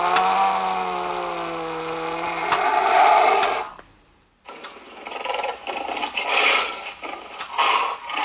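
Sound effects from a battery-powered animatronic lion plush toy, played through its small speaker. First comes a held, pitched roar that sounds like a cow mooing and ends about three and a half seconds in. After a short pause comes a rougher, pulsing lion growl lasting about four seconds.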